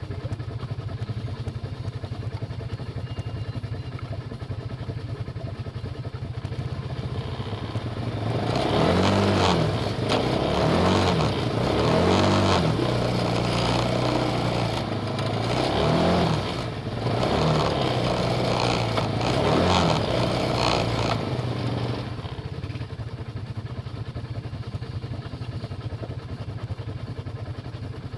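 Off-road vehicle engine idling, then revved up and down hard several times for about fourteen seconds before dropping back to idle. This is a pull to drag a stuck RZR side-by-side out of a creek.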